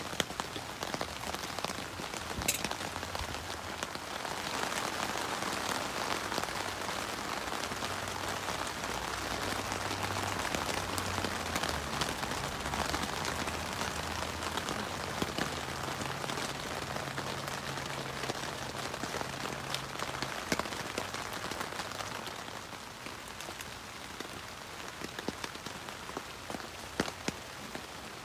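Rain falling on the tent's fabric roof, heard from inside: a steady hiss dotted with individual drops ticking on the canvas. It is a little heavier in the middle and eases off near the end.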